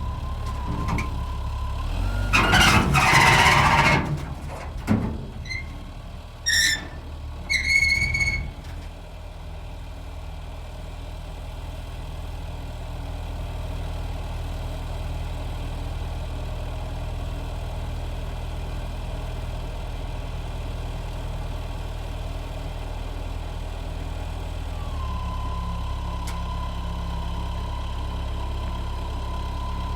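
Heavy vehicle engine idling steadily. A loud rushing noise comes about three seconds in, followed by a few short high squeaks; near the end the engine note steps up slightly and a steady whine sets in.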